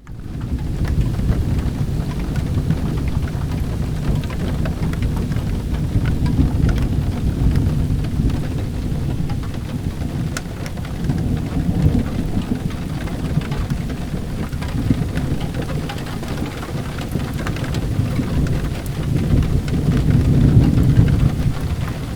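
Steady heavy rain with low rolling thunder rumbling underneath, swelling several times and loudest near the end.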